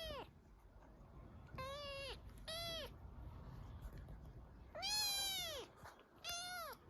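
A kitten meowing in a temper: a string of short, high-pitched meows, about five in all, with a longer, louder meow about five seconds in.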